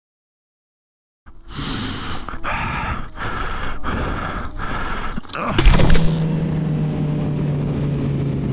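A person panting hard, about one breath every two-thirds of a second. Then a sharp crack, and a motorcycle engine idling steadily.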